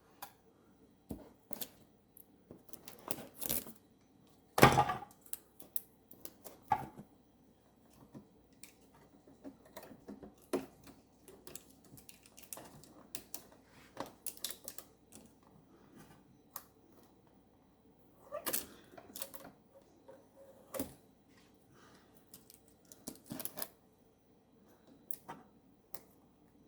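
Irregular light clicks, taps and rustles of hard plastic parts and packaging being handled, with one louder knock about five seconds in and small clusters of clicks later on.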